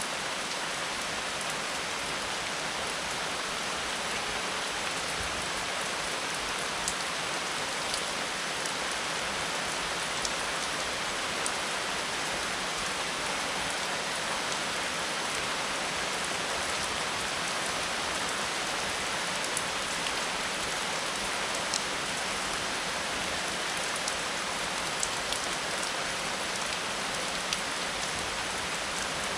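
Steady rain falling on a surface, with occasional single drops ticking sharply above the hiss.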